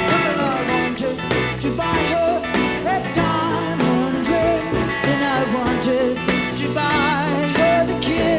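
Live rock band playing an instrumental passage between verses of a song.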